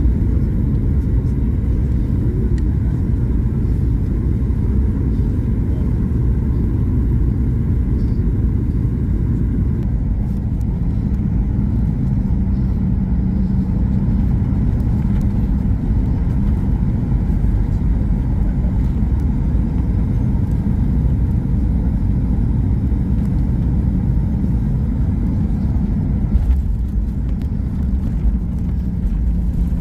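Boeing 737-800 cabin noise on approach: a steady, loud low rumble of engines and airflow, with a faint steady hum joining partway through and a brief knock near the end.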